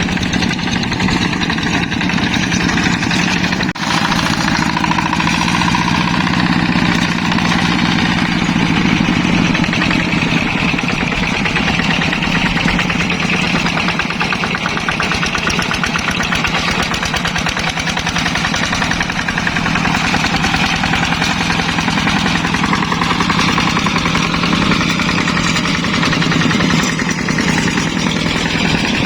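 Yanmar hand tractor's diesel engine running steadily under load, a rapid, even chugging that keeps on without a break.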